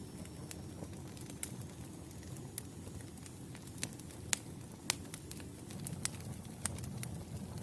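Wood campfire crackling: scattered sharp pops and snaps over a steady low rumble of burning logs, with the loudest pops a little past the middle.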